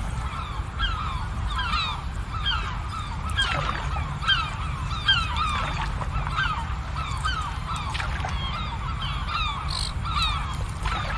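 A flock of birds calling over and over, short downward-sliding calls overlapping several times a second, above a steady low rumble.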